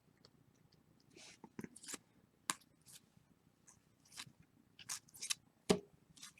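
Trading cards and a pack wrapper being handled, with scattered soft swishes and a few light clicks as the cards are slid and flipped.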